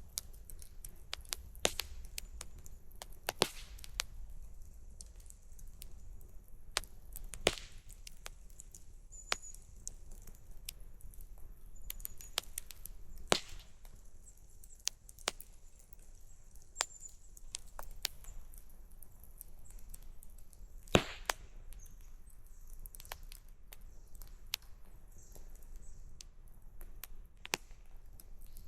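Wood campfire crackling, with irregular sharp pops and snaps, the sharpest one about three quarters of the way through.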